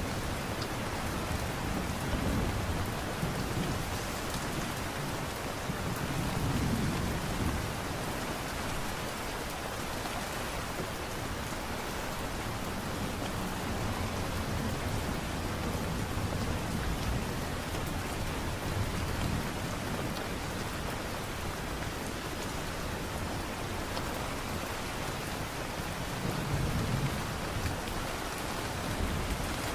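Steady light rain falling, with a few soft low rumbles that swell and fade.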